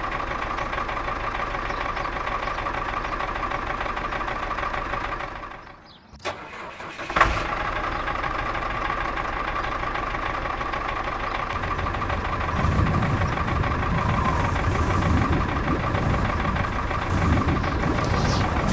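Engine running steadily, fading out about six seconds in and starting up again with a sharp click about a second later. It runs with a heavier low rumble from about twelve seconds on.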